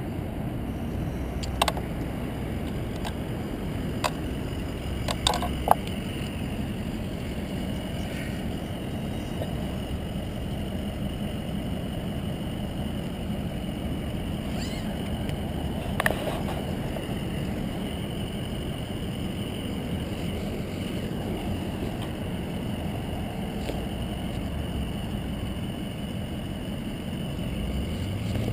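Steady wind and road rumble of a bicycle ride, with a handful of sharp clicks or knocks in the first six seconds and another about 16 seconds in.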